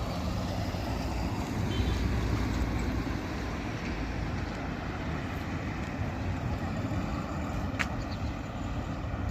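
Steady low rumble of a vehicle's engine and road noise, with a single sharp click about eight seconds in.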